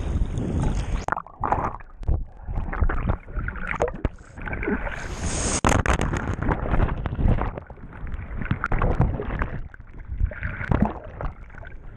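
Water splashing and sloshing close to the microphone in uneven rushes, with short lulls between them.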